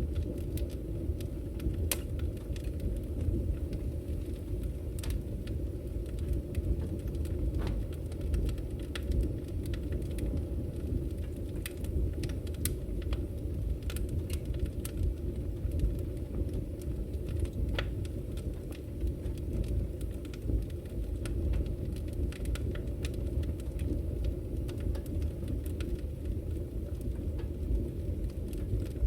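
Wood fire burning in a fireplace: a steady low rumble of flames with scattered crackles and small pops of the firewood.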